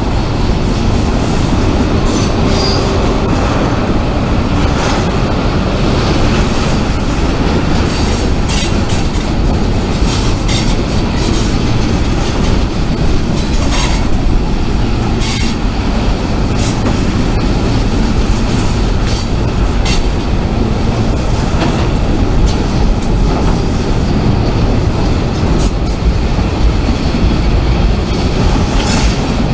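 Freight train cars rolling past on the rails: a loud, steady rumble with repeated clicks and clanks from the wheels and couplings, and a brief high wheel squeal near the start.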